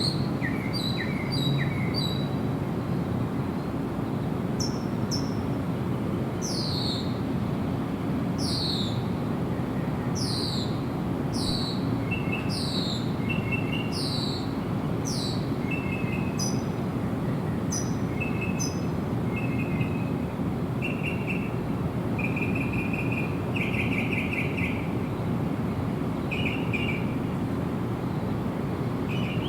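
Several birds calling over a steady low background noise. It opens with short repeated notes about twice a second, then a run of quick downward-sweeping whistles about once a second. After that come short chirps and buzzy trills in a lower register near the end.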